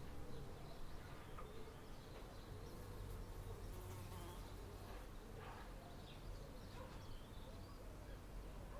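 An insect buzzing with a steady, slightly wavering hum, with faint bird chirps.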